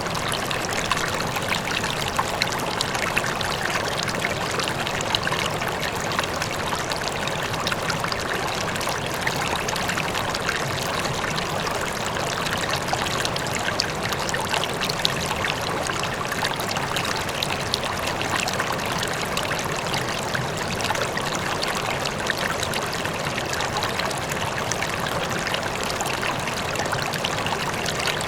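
River water flowing steadily over stones, a continuous rushing with fine splashing and trickling.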